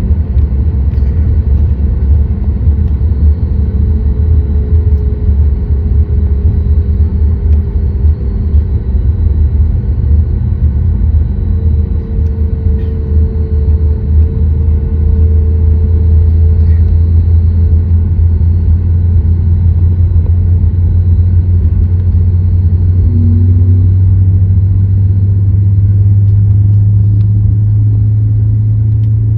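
Cabin noise inside a Boeing 737 MAX 8: a loud, steady low rumble from its CFM LEAP-1B jet engines and the airframe. The engine tones rise slightly and the level grows from about halfway in.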